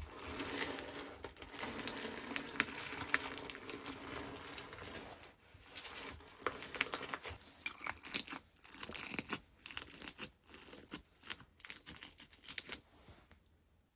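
Slime being squished, stretched and pressed by hands, giving a dense crackling for the first five seconds or so, then bursts of sharp clicks and pops. It stops suddenly near the end.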